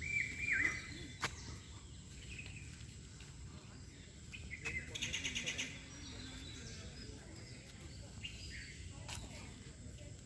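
Wild birds calling over steady low background noise. There is a short falling call at the start, and a rapid trill of about ten notes a second about five seconds in.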